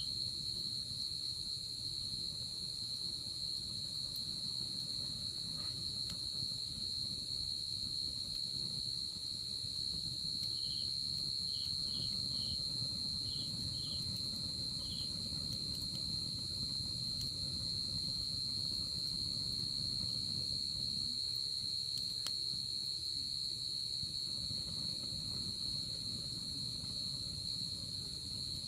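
Night insects trilling in an unbroken, even high-pitched drone, with a few softer short chirps from another insect around the middle and a low steady rumble underneath.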